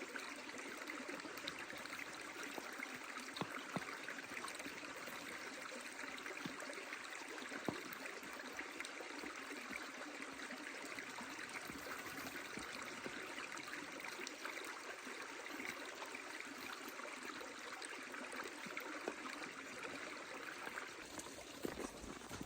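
Stream water running steadily, with scattered sharp crackles from a burning wood fire; the water sound thins out just before the end.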